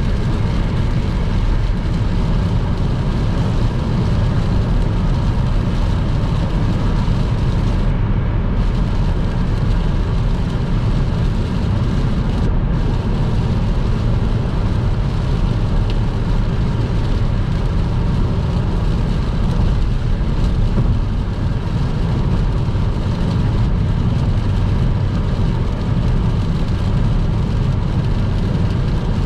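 Car driving at motorway speed on a wet road: a steady low rumble of tyre and road noise with a hiss over it. The hiss dips briefly twice.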